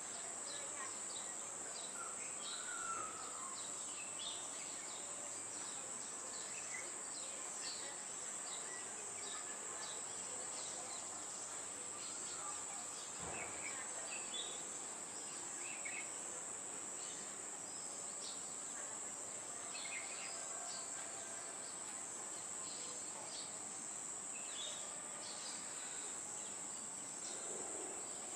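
Steady high-pitched insect trill with scattered short bird chirps over outdoor background noise, and a single sharp click about halfway through.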